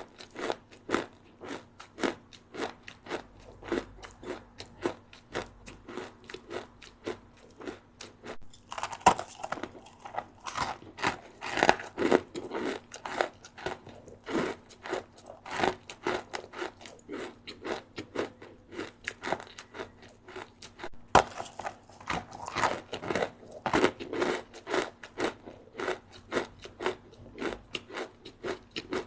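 Close-up chewing of a crunchy puffed-rice snack: a steady run of crisp crunches, about three a second, with two louder spells of dense crunching, one a little under a third of the way in and one about two-thirds through.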